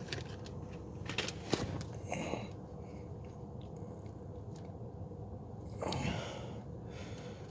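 Scattered clicks and short rustles of hands working on car hoses and zip ties, over a steady low hum. A few sharp clicks come about a second in, with brief rustling around two seconds and again near six seconds.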